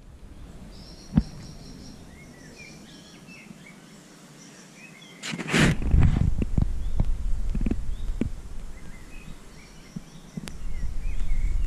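Small birds chirping and calling, with a sharp click about a second in and a loud rush of noise about five seconds in that gives way to a low rumble, which fades and returns near the end.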